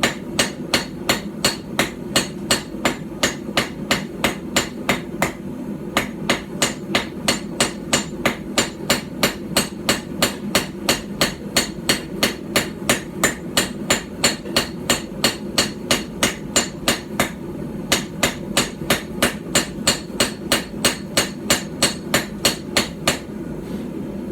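Light hand-forged hammer striking hot steel on a small stump anvil, about three sharp blows a second in a steady rhythm, with two brief pauses, while drawing out the bevels of a small knife blade.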